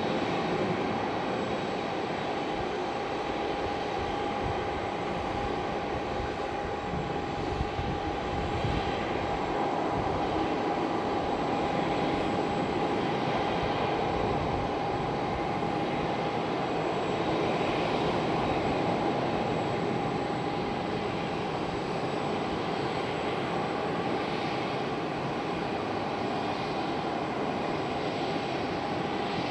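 Airliner jet engines running steadily: a continuous noisy rumble with a steady mid-pitched tone held over it.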